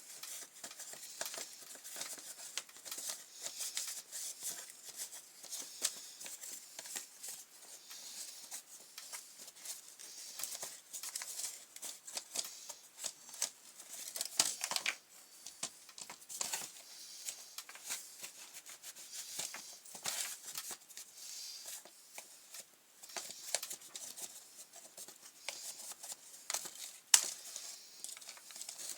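Scratchy scrubbing and scraping while cleaning the parts of a McCulloch grass trimmer's pull-cord starter assembly, with frequent small irregular clicks and knocks as the parts are handled.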